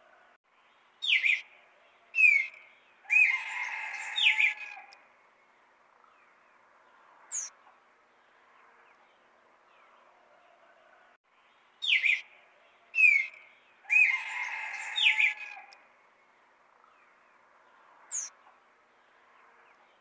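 A songbird singing the same phrase twice, about eleven seconds apart. Each phrase is two sharp downward-slurred whistles, then a longer, rougher stretch with more slurred notes, and a single thin high note a few seconds later.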